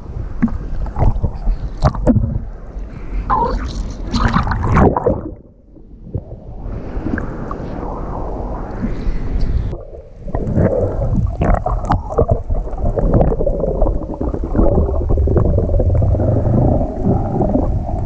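Rough surf churning and splashing right at the microphone, with wind buffeting it. About five seconds in the sound briefly drops and goes muffled before the churning water returns.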